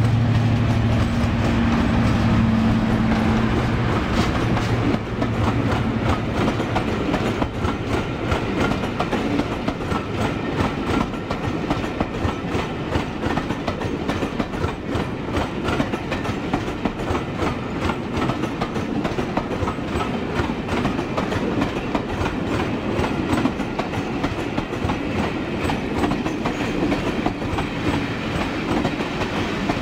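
Class 55 Deltic diesel locomotive passing, its twin Napier Deltic two-stroke engines giving a strong low note that fades after the first few seconds. Then the coaches roll by with a steady rumble and repeated clickety-clack of wheels over rail joints.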